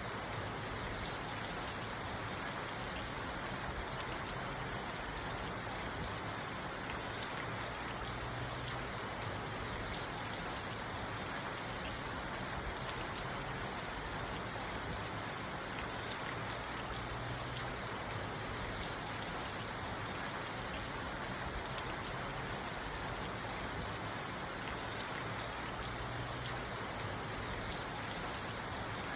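Steady rain falling on a parked car, heard from inside the cabin.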